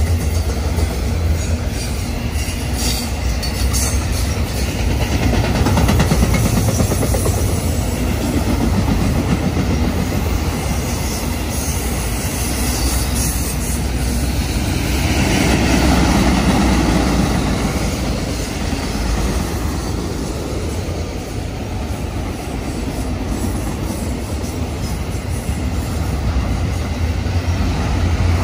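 A train rolling past on the track: a steady, loud rumble of wheels and cars that swells a little about halfway through.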